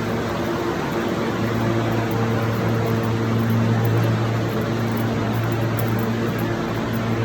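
New York City subway (M train) noise: a steady rushing rumble with a low, constant hum underneath.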